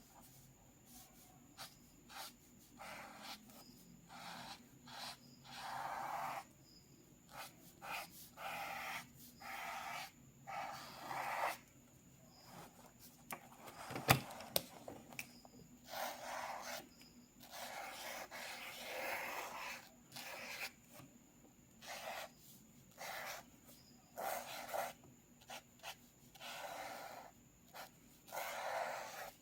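Drawing strokes scratching across paper, short and longer strokes in irregular succession with brief pauses, and one sharp tap about halfway through.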